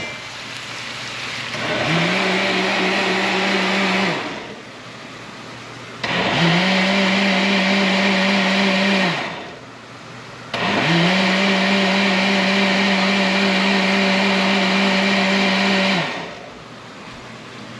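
Electric blender running in three bursts of a few seconds each, blending beetroot with water. Each burst starts with a quick rising whine as the motor spins up, holds a steady pitch, then winds down.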